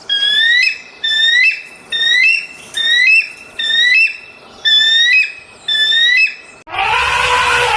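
An animal, likely a bird, calling over and over: about seven short, clear, rising whistled calls at an even pace. About 6.7 s in, a harsher, hoarser and lower call takes over.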